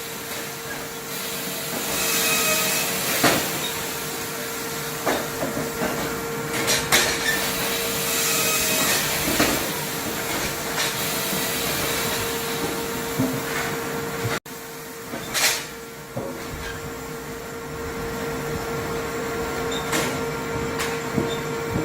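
Firewood processing machinery running: a steady hum with a hiss and a constant mid-pitched whine, broken by scattered knocks and clatters of wood.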